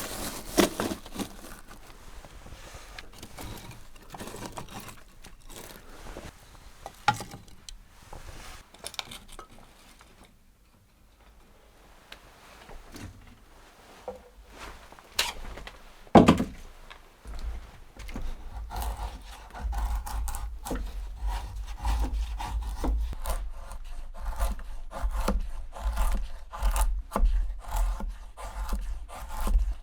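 Hand work with scraping, rubbing and knocking sounds, one sharp knock about halfway through. From about two thirds of the way in comes a steady run of quick back-and-forth strokes.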